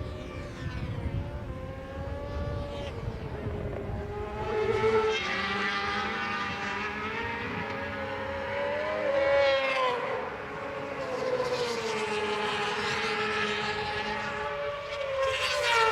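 Road-racing motorcycles at speed, engines revving up and down through gear changes, with bikes sweeping past about two-thirds of the way in and again near the end.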